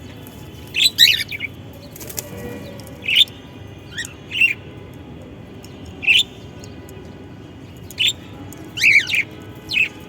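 A parrot giving short chirps and squeaks every second or so, some in quick pairs.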